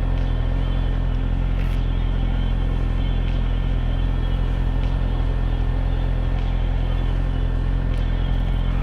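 2013 Suzuki GSX-R600's inline-four engine running at a steady engine speed, a constant drone with no revving or gear changes.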